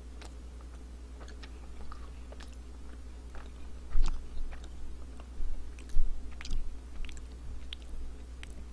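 Close-up chewing of a firm, chewy chocolate granola bar: irregular small crunches and moist clicks, a few louder bites around the middle.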